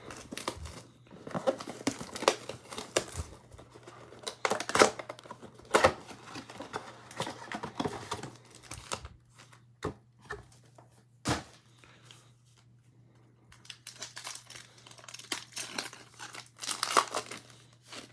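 Plastic wrapping on a trading-card box and its packs being torn open and crumpled, in many short crackling bursts with a quieter pause partway through.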